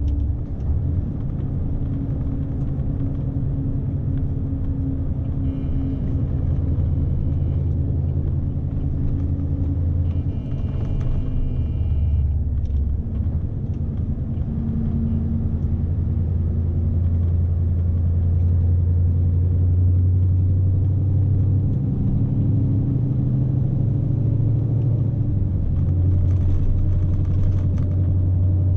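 Scania S520's V8 diesel engine running steadily as the fully loaded truck is driven, heard from inside the cab as a low drone with road rumble. Two short high-pitched tones sound, about 6 and 11 seconds in.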